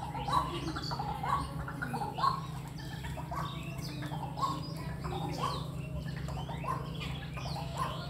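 Birds calling: a short call repeats about once a second, with other higher chirps scattered among it, over a steady low hum.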